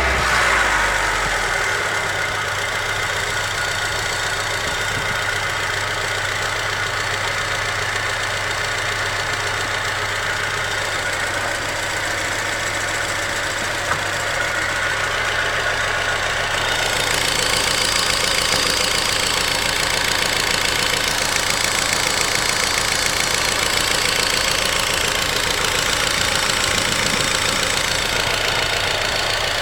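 Car engine idling with the hydraulic lifters knocking in a fast, even ticking rhythm after an engine oil flush, a sign that the lifters are not holding oil pressure. The ticking gets a little brighter and louder about halfway through.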